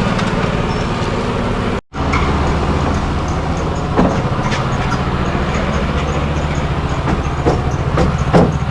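A motor running with a steady low drone. It breaks off for an instant about two seconds in, and a few sharp knocks come through later on.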